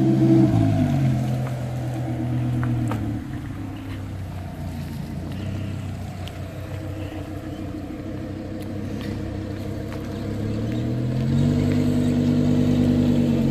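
Lamborghini Huracán LP610-4's 5.2-litre V10 through an Fi valved exhaust, driven at low speed. The note drops and fades as the car moves off, then rises in pitch and grows louder again about eleven seconds in as it comes back and manoeuvres into a parking space.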